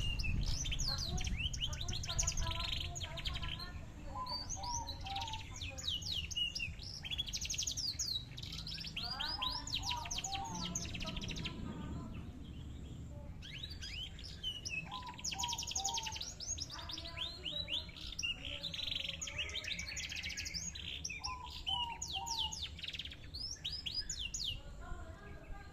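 Canary singing in long phrases of fast trills made of rapidly repeated, down-slurred high notes, with a brief lull about halfway through.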